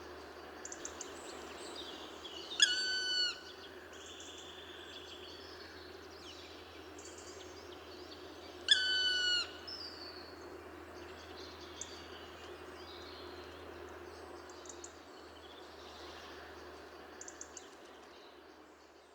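Wild birds calling in a forest: two loud, harsh calls about six seconds apart, with small high chirps scattered throughout over a steady background hush. The sound fades out at the end.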